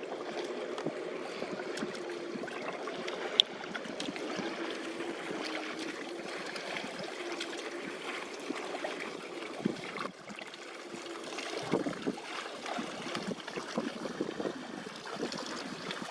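Water sloshing and trickling, with a sharp click about three and a half seconds in and a run of uneven splashes in the last few seconds.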